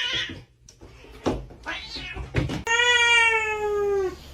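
A domestic cat giving one long meow, about a second and a half, sliding slightly down in pitch near the end, after a few light knocks.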